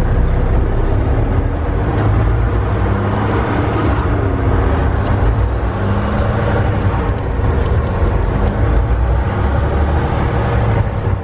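Volvo D13 13-litre inline-six diesel in a semi truck running under way, with a heavy low rumble and road noise. The engine note rises and dips a few times in the middle.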